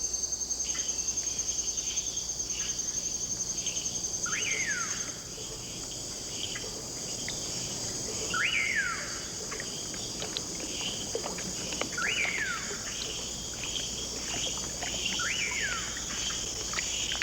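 Tropical rain forest ambience: insects trilling in a steady high, pulsing chorus. Over it a short falling call repeats four times, roughly every four seconds, among scattered small chirps.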